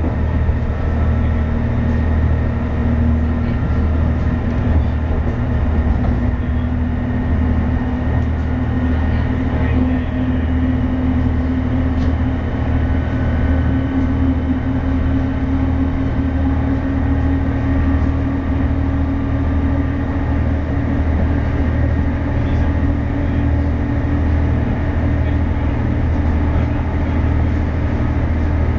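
Passenger train running, heard from on board: a steady low rumble with a whine that slowly rises in pitch.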